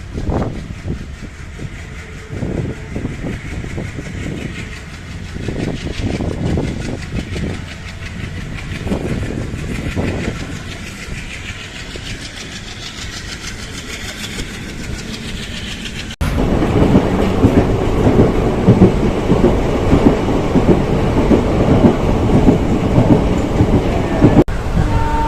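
Moving passenger train heard from aboard, its wheels clattering over the rail joints with an uneven run of low knocks over a steady rumble. About two-thirds of the way in the sound jumps abruptly to a much louder, denser rattle and roar.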